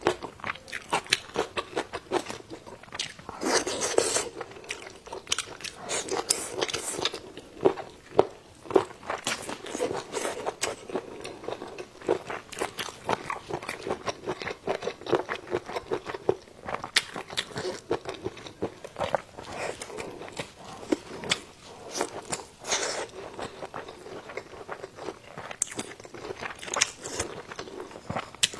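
A person eating close to the microphone: repeated crunchy bites and chewing, with many small irregular clicks and crackles.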